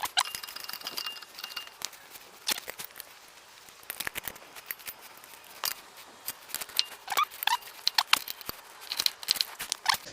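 Irregular sharp metallic clicks, clinks and knocks from a car jack and tools being handled, with a couple of short squeaks about seven seconds in and a busy cluster of clicks near the end.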